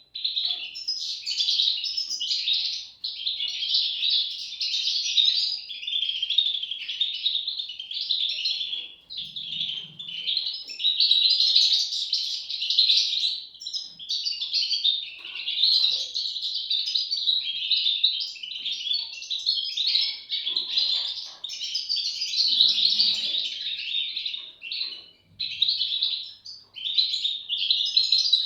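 European goldfinch chicks chirping in a dense, almost unbroken chorus of high calls with only short breaks.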